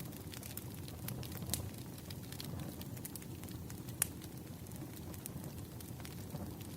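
Fireplace crackling: irregular sharp pops and snaps over a low steady rumble, with one louder pop about four seconds in.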